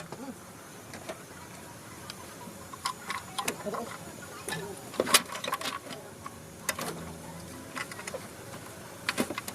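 Irregular light metallic clicks and clinks of engine parts and tools being handled, with the sharpest click about five seconds in.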